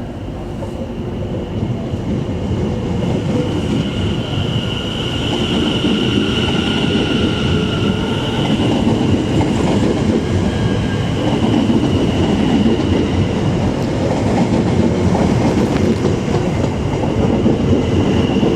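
A pair of Class 720 electric multiple units rolling past at close range, growing louder as they go. A high steady whine sounds for a few seconds near the middle.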